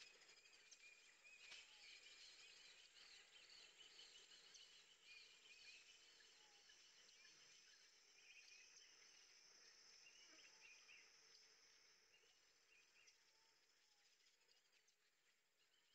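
Near silence: a faint hiss with many small high chirps, fading slightly toward the end.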